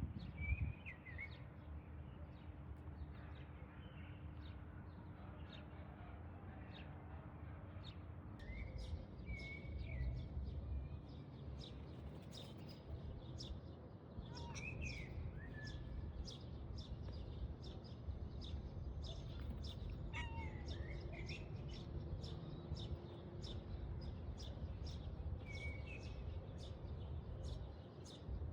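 Birds chirping now and then, short calls that rise and fall in pitch, over a steady low rumble of outdoor noise. From about a third of the way in there are many faint quick clicks.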